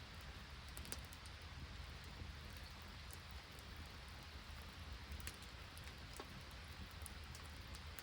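Rain mixed with snow falling steadily, with scattered sharp ticks.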